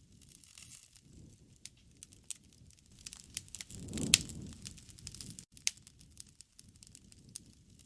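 Wood campfire crackling, with irregular sharp pops and snaps. A low rush swells and fades near the middle, and the loudest pop comes about four seconds in.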